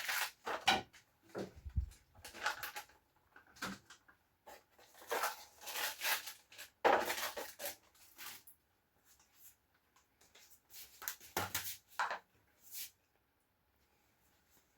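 Intermittent clatter, knocks and rustling of food containers and packaging being handled and moved about in a refrigerator, in short bursts with pauses between them.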